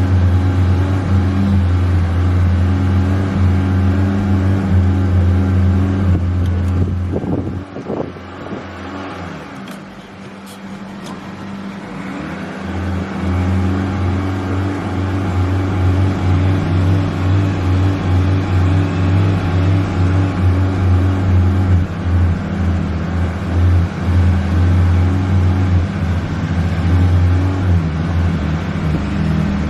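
Honda Civic engine running with small changes in revs as the accelerator is pumped. About seven seconds in there are a couple of knocks, then the engine sound falls away and builds back up over the next few seconds.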